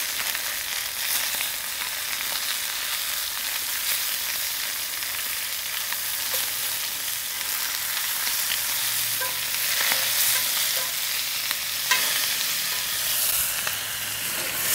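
Chicken thighs searing in hot oil in a 12-inch Lodge cast iron skillet: a steady frying sizzle. A few sharp clicks of steel tongs against the pan come as the thighs are turned, the loudest about twelve seconds in.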